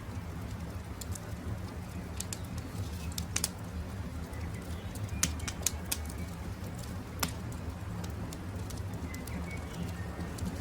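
Campfire crackling, with scattered sharp pops over a steady low rumble of the fire. A few faint bird chirps sound about halfway through and again near the end.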